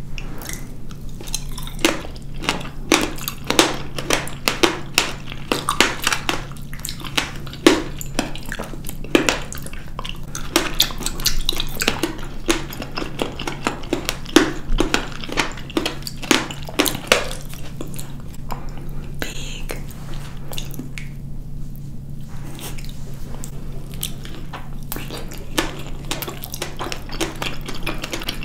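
Close-miked chewing of fresh blackberries: a quick run of wet clicks and squishes that thins out after about eighteen seconds, over a steady low hum.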